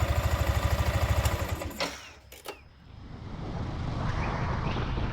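Yamaha Sniper 155 VVA single-cylinder engine idling with a steady, even pulse and the 'helicopter' sound the owner says this model has always had off-throttle, then cutting out about two seconds in, followed by a few clicks and faint background noise.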